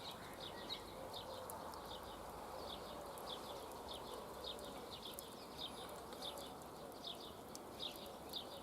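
Faint small-bird chirping: short, high chirps repeated irregularly, a few each second, over a low steady background hiss.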